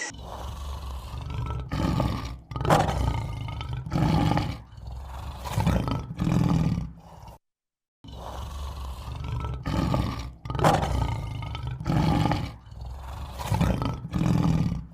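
A large animal's deep calls, one every second or so, broken by a brief silence about halfway through, after which the same run of calls is heard again.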